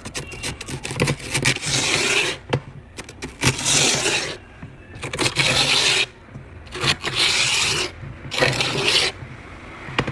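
Icy frost being scraped off by hand, with about five long scraping strokes of roughly a second each and small clicks in between.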